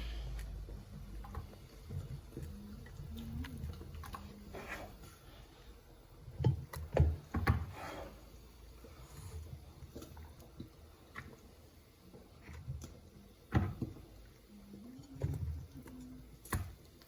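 Scattered light knocks and clicks of household handling, with a louder cluster of three thuds about halfway through, over a faint low hum.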